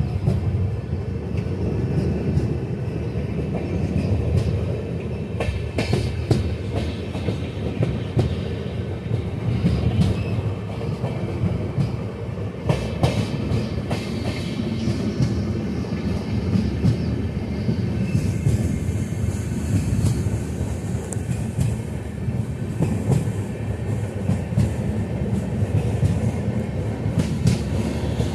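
Antyodaya Express passenger coaches running at speed: a steady rumble of wheels on the rails, with scattered sharp clicks as the wheels pass over rail joints, heard from alongside the moving coach.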